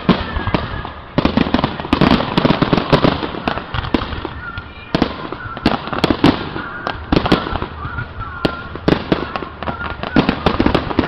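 Fireworks going off: many sharp bangs and crackles in quick, irregular succession, overlapping one another.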